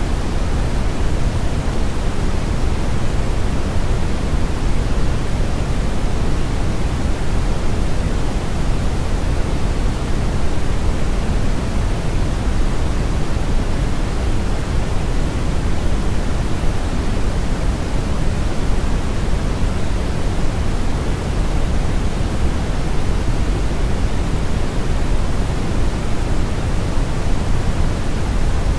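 Brown noise: steady random noise weighted heavily toward the low end, with the highs much weaker, like a deep rushing without any pitch or events.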